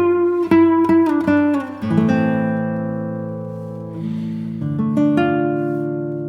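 Music on a plucked string instrument: a run of quick plucked notes, then a chord left ringing and slowly fading from about two seconds in, struck again just before five seconds.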